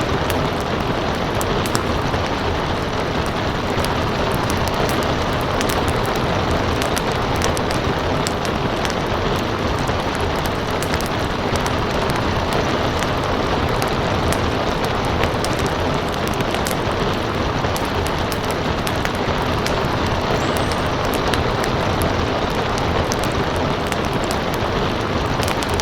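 Steady heavy rain with a wood fire crackling over it: an even rush of rainfall and frequent sharp pops and snaps from the burning logs.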